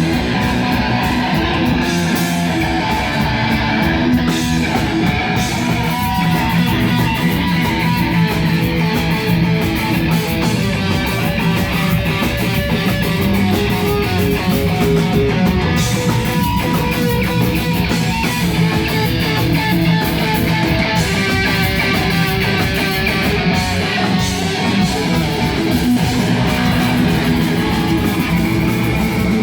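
Live rock band playing loud, with distorted electric guitar to the fore; the sound is dense and steady throughout.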